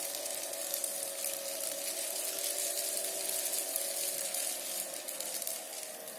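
Small electric motor spinning a fan in a homemade water-bottle vacuum cleaner, running with a steady whine over an airy hiss of air being drawn through.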